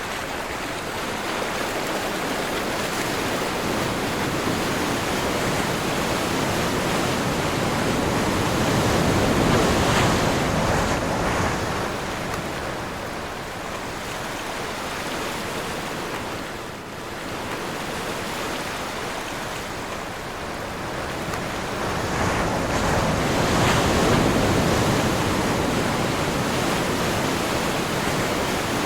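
Ocean surf on a windy day: a continuous rushing wash of breaking waves that swells twice, about ten seconds in and again near the end, with wind in between.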